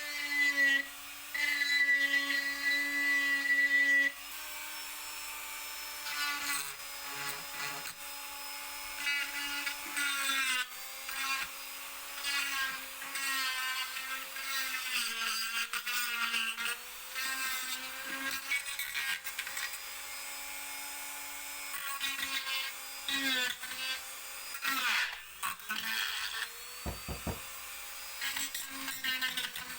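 Small handheld power tool, such as a drill or rotary tool, running steadily on wood. Its motor pitch sags briefly several times as it bites into the work, and the contact adds a grinding rasp.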